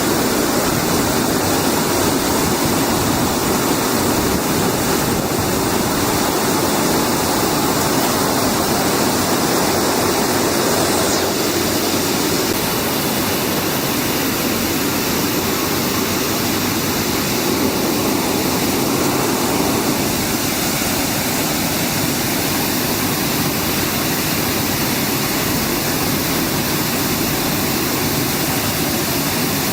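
Air bubble fruit and vegetable washing machine running: water churned by rising air bubbles makes a steady rushing, splashing noise.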